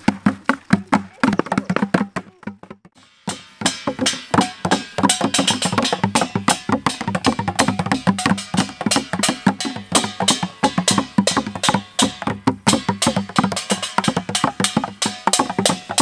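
Fast, loud drumming on plastic drums and containers beaten with sticks. It drops out briefly about three seconds in, then starts again.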